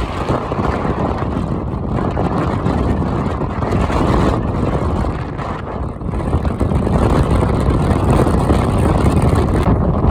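Storm-force wind gusts buffeting the microphone: loud, rumbling wind noise that eases briefly about five seconds in and then builds again.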